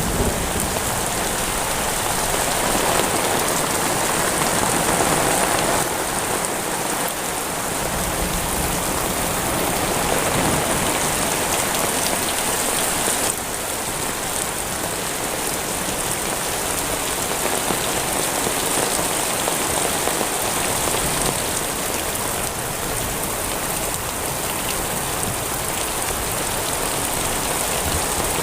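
Heavy rain pouring down steadily: an even hiss with no break.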